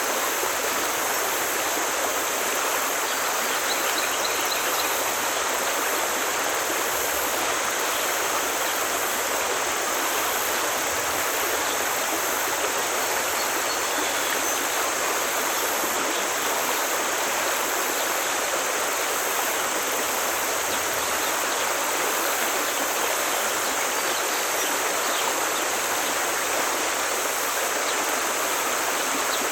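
A forest stream rushing and splashing over rocks, a steady even wash of water sound.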